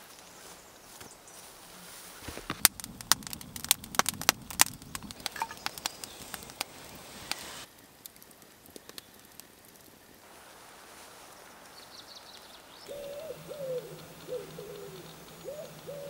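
A quick run of sharp clicks and knocks for about five seconds, stopping abruptly. Near the end a bird calls in a low, wavering voice.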